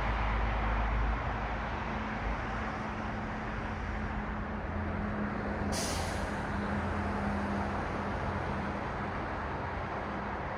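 Street traffic passing steadily, with the low hum of a heavy vehicle's engine through most of it. A short, sharp hiss cuts in about six seconds in.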